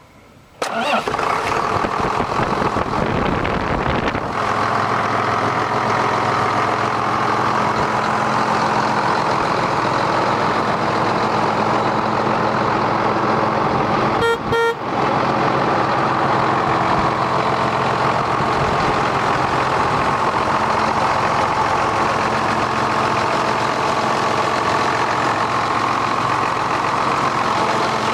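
John Deere 7810 tractor's six-cylinder diesel engine starting about half a second in, then running steadily. Around the middle comes a brief horn-like beep.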